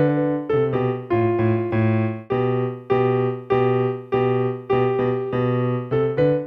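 Electronic keyboard played in a plain piano sound, a melody over a lower part, each note struck and then fading. The notes come in an even rhythm of about two a second, with a few quicker pairs.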